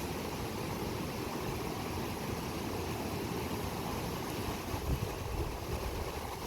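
Swollen monsoon river rushing steadily over its bed, an even wash of water noise.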